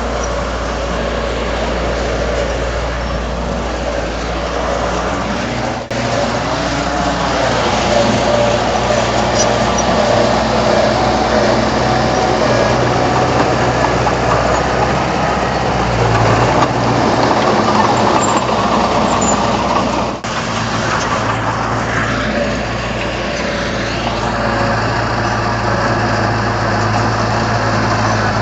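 Diesel engine of heavy earthmoving machinery running steadily under load, with two brief dips in level.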